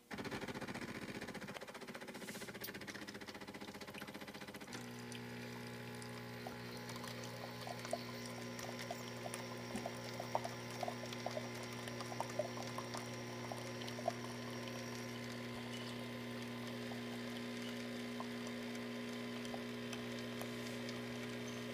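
Bosch Tassimo T45 pod coffee machine brewing a milk T-Disc for a cappuccino: hot milk pouring into the cup. Its pump hum starts about five seconds in and runs steadily, with small crackling spurts for several seconds after it starts.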